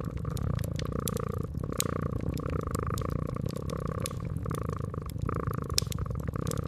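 Cat purring steadily, with a wood fire crackling in the background: sharp, irregular pops and snaps scattered throughout.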